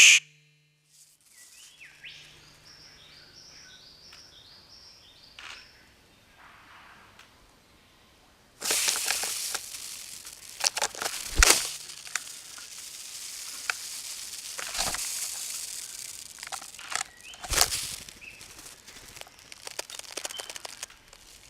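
Male Victoria's riflebird displaying: dry rustling and swishing of wing feathers, with a few sharp, louder swishes. Before the rustling begins, a faint run of short, falling bird notes.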